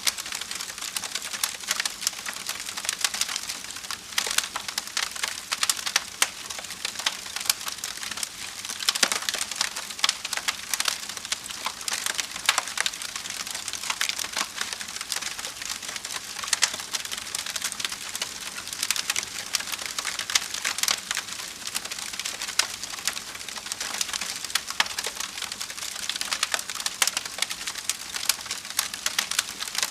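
Fire in a fireplace crackling steadily: a dense run of small pops and snaps with no let-up.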